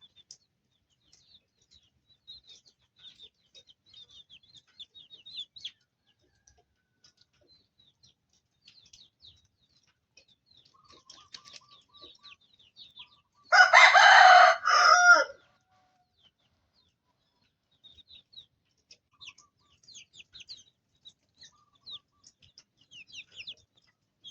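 Chicks peep faintly and steadily, in short high downward chirps. About fourteen seconds in, a rooster crows once, loud and lasting under two seconds with a brief break near its end.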